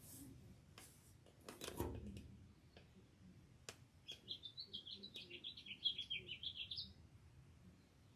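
A bird singing a fast run of chirping notes for about three seconds, starting about four seconds in and rising at the end. Before it come a few sharp clicks and a brief, louder rustle.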